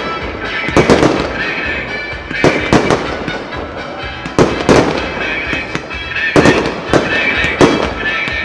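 Aerial firework shells bursting in irregular clusters, sharp bangs every second or so, over the show's music.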